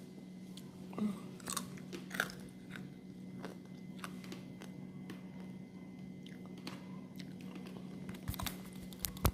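Chewing on microwave-made tanghulu, fruit with a hard candied sugar shell: irregular crisp crunches as the shell breaks between the teeth, a few more in quick succession near the end.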